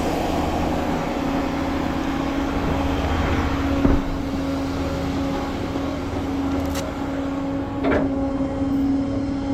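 Truck running at a standstill: a steady mechanical hum with a constant whine and low rumble, with a knock about four seconds in and another about eight seconds in.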